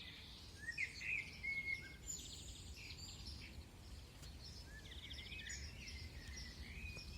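Songbirds singing: short chirps and whistles, loudest about a second in, with rapid buzzy trills twice, over a steady low rumble.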